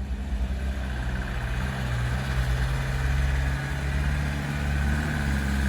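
Truck engine running steadily, its low hum slowly growing louder, with a second low tone joining about a second in.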